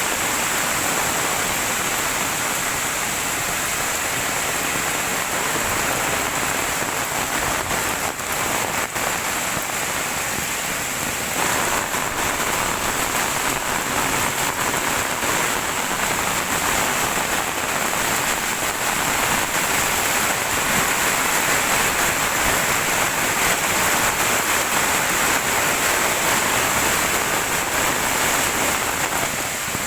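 Heavy rain falling steadily in a dense hiss, with a few sharp taps about eight seconds in; the downpour grows a little heavier about eleven seconds in.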